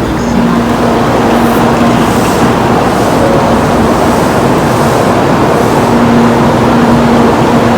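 Tokaido Shinkansen train noise: a loud, steady rush with a constant low hum running through it.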